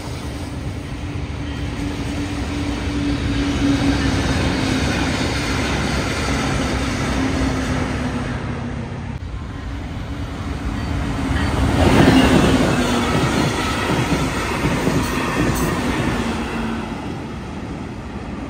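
Brightline passenger train running past a level crossing: a steady rumble of wheels on rail with a low hum. The sound drops briefly about nine seconds in, then swells to its loudest as the train passes about twelve seconds in.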